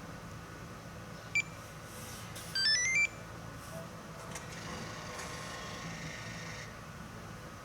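Panthera Z705 remote engine starter and car security system beeping as the remote start is triggered: one short beep, then a quick rising run of electronic tones.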